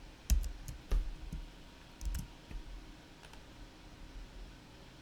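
Irregular clicks of computer keys being pressed, each with a dull thud through the desk, about six in the first two and a half seconds and then a single faint one.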